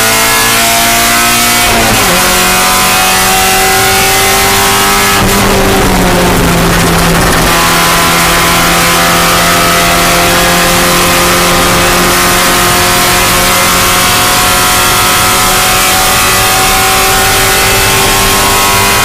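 Spec Miata race car's four-cylinder engine under load, pulling up through the revs. The engine pitch drops sharply about two seconds in and again about five seconds in, the second time with a brief burst of noise, then climbs slowly for the rest.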